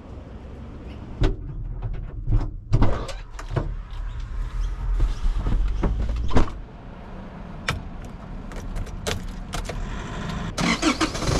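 Keys jangling and a series of sharp clicks and knocks over a low steady rumble; near the end a louder steady noise sets in.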